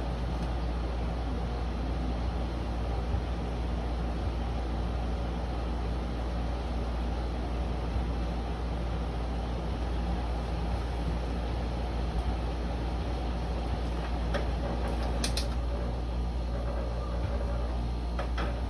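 Room air conditioner running steadily, a constant fan rush over a low hum, with a couple of faint clicks near the end.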